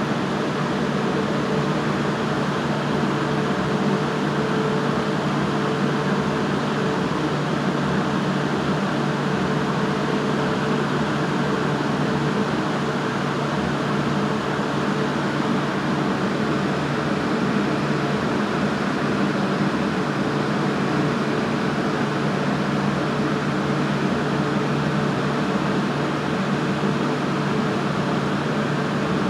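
A steady mechanical whir: an even hum with a hiss over it that does not change.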